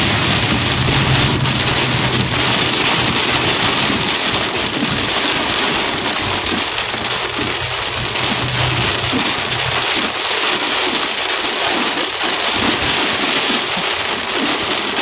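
Heavy thunderstorm rain and strong wind beating down as a steady, loud rush. A low vehicle hum runs underneath and drops away about ten seconds in.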